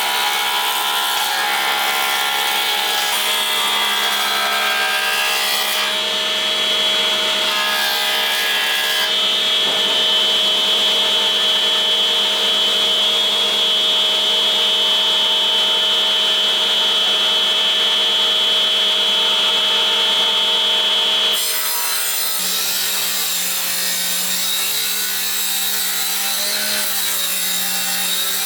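A power tool cutting wood, running continuously with a steady whine. The sound changes about six, nine and twenty-one seconds in, as the tool's load shifts.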